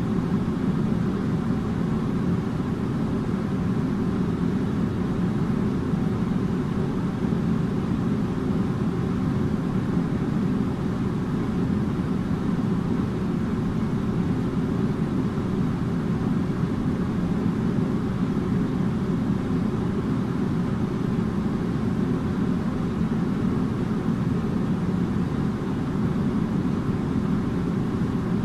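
Air conditioner running steadily: an even, low whooshing hum of fan and airflow that does not change.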